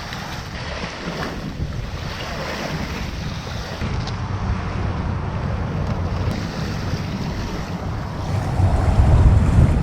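Wind buffeting the microphone outdoors by the water, a steady low rumble that gusts louder near the end.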